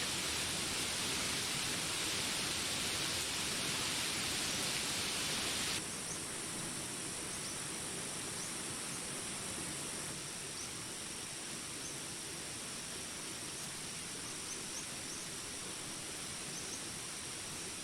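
Steady rain hiss that cuts off abruptly about six seconds in, giving way to quieter jungle ambience: insects droning in high steady tones with scattered short high chirps.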